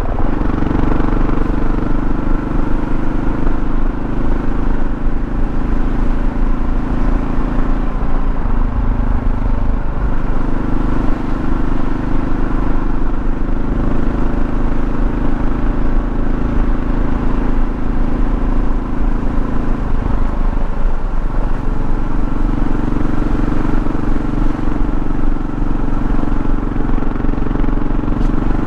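A 2024 Kawasaki KLR650's single-cylinder engine running steadily under way, with road noise. The engine note changes about 8 seconds in, and around 20 seconds in it drops and then picks up again.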